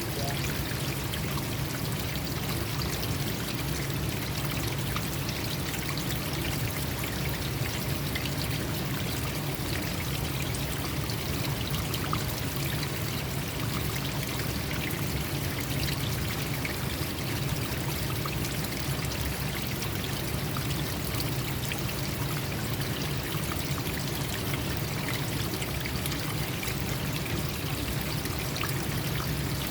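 Water flowing in a stream, a steady even rush.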